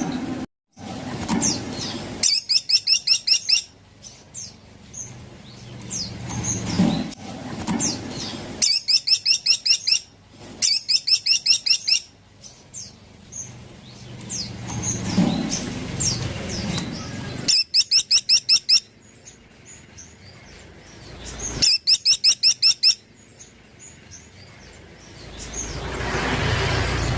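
Caladi (small woodpecker) calling: five fast rattling trills of evenly repeated high notes, each lasting about a second and a half, with softer single chirps in between.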